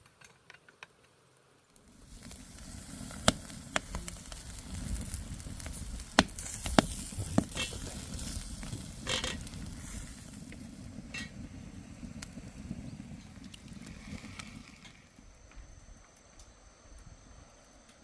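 Crackling and sizzling over a wood fire, with many sharp pops and cracks. It starts suddenly about two seconds in and dies down about three seconds before the end.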